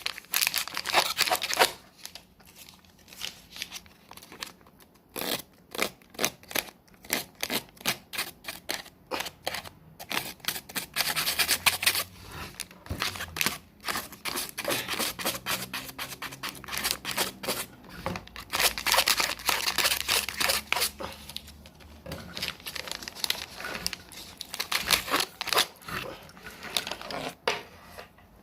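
Close crinkly wrapping being handled and crumpled, in runs of rapid crackling a few seconds long with quieter pauses between them.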